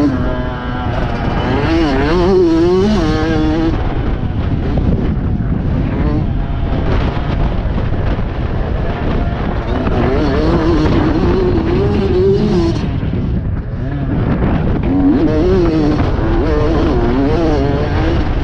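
Motocross bike engine revving up and down over and over as the bike is ridden, its pitch rising and falling in quick swells over a dense low rumble.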